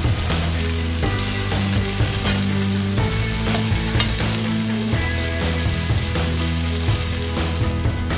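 Chopped onions and coriander leaves sizzling in hot oil in a frying pan as they are stirred, with short scraping strokes against the pan, over background music.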